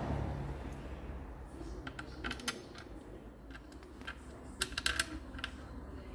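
Light clicks and taps in two short clusters, about two seconds and about five seconds in, after a low rumble fades out at the start.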